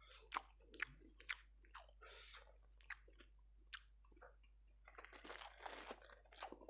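A person faintly chewing ayam geprek (smashed fried chicken), with soft crunches and small mouth clicks scattered through.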